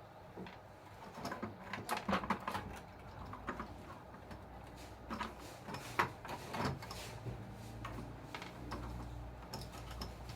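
Irregular clicks and light knocks of small plastic parts and hand tools being handled while working on an RC toy bulldozer, with a faint low hum in the last couple of seconds.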